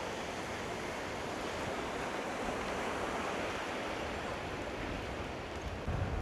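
Ocean surf washing on a beach, a steady rush of waves that swells a little midway. Near the end, wind starts buffeting the microphone.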